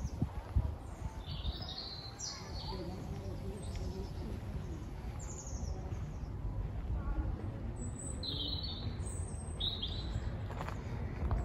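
Small birds chirping in short high calls, a few in the first seconds and a cluster about eight to ten seconds in, over a steady low rumble.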